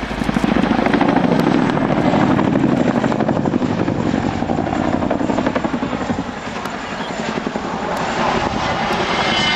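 Helicopter flying past, its rotor blades beating in a fast, steady chop.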